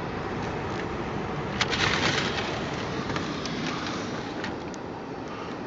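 Steady road and engine noise heard inside a car driving through deep snow, with a short burst of crackling about two seconds in and a few scattered clicks after.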